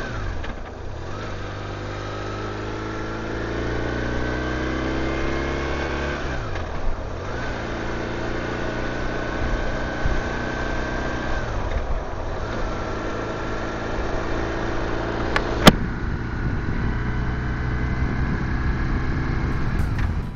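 BMW touring motorcycle's flat-twin boxer engine pulling hard, its pitch rising through each gear, with gear changes near the start, about a third in and just past halfway, then holding steady at cruising speed. A single sharp click about three-quarters through.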